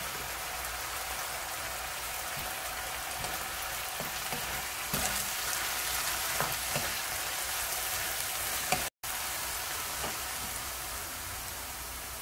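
Oyster mushrooms and carrot strips sizzling steadily in a nonstick wok while a wooden spatula stirs them, with a few light scrapes and knocks of the spatula around the middle. The sound drops out for a split second about nine seconds in.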